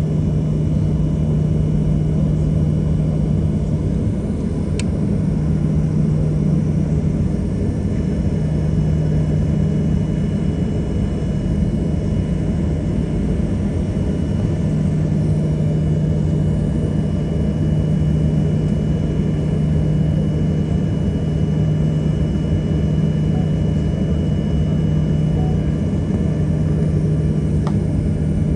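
Cabin noise inside a Boeing 737-800 airliner: a steady low hum and drone with a faint, thin high-pitched whine above it, unchanging throughout.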